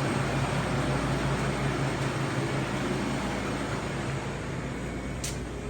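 Steady hum and air rush of the shop's running machinery, such as ventilation and cooling units, easing slightly toward the end, with one brief click near the end.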